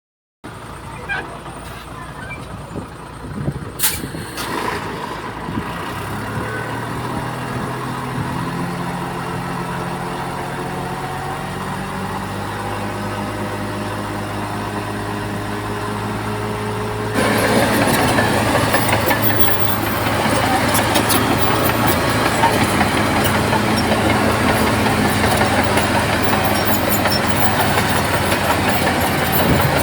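Bulldozer diesel engine running, its hum rising slowly in pitch as it revs and then holding steady. About halfway through, the sound jumps suddenly louder and rougher, over the same steady engine note.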